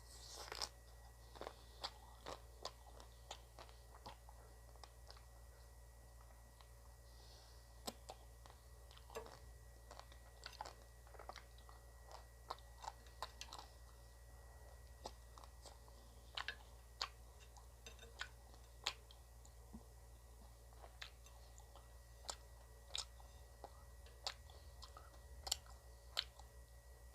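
Close-up chewing and crunching of frozen ice cream: irregular sharp crunchy clicks, about one or two a second, over a faint steady hum.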